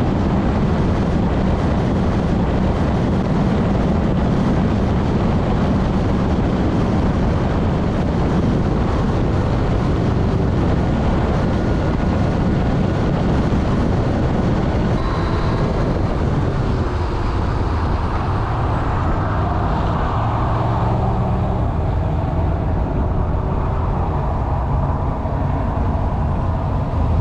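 Motorcycle riding at road speed: steady wind and road noise over the engine running underneath.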